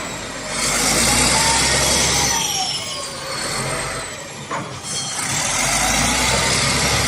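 SDLG LG956L wheel loader's diesel engine running under changing load, with a high whine that falls and then rises in pitch over the engine noise; the sound drops away briefly a little past the middle before picking up again.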